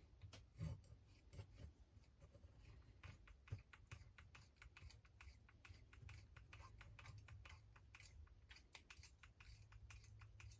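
Faint, irregular light clicks and taps of small hard RC crawler parts and screws being handled during chassis assembly.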